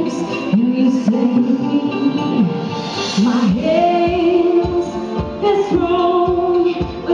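A woman singing a pop ballad live with orchestral accompaniment, holding long notes with vibrato; a low pulsing beat joins the accompaniment about halfway through.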